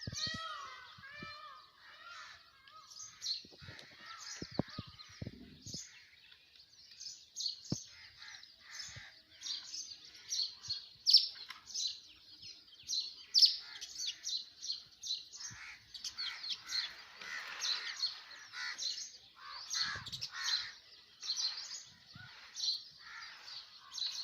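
House sparrows chirping: a run of many short, high chirps that grows busier from about a third of the way in.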